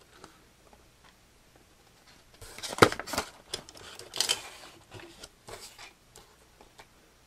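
Light clicks and rustling from hands handling a small plastic model kit. It starts about two seconds in, with one sharper click near the three-second mark.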